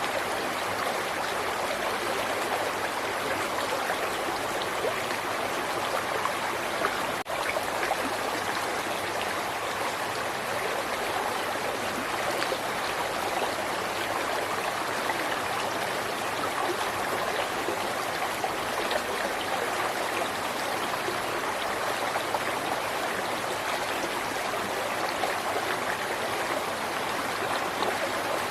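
River water flowing over rocks, a steady rushing and babbling, with a very brief dropout about seven seconds in.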